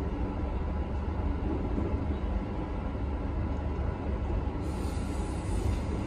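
Steady low rumble of a KTM Skypark Link electric commuter train running, heard from inside the carriage as it comes into a station. A higher hiss joins about three-quarters of the way through.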